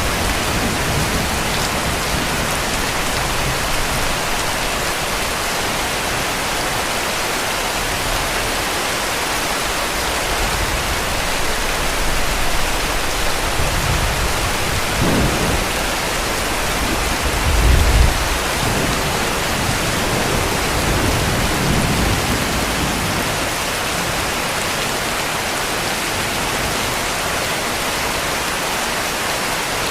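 Steady heavy rain hiss, with low rumbles of distant thunder through the middle, the loudest a little past halfway.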